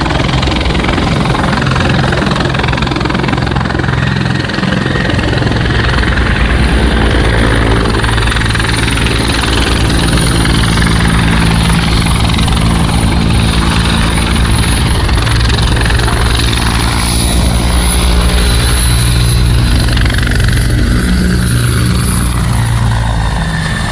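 Bell 412EP twin-turbine helicopter running loud and steady: the four-blade main rotor's low beat under a high, thin turbine whine.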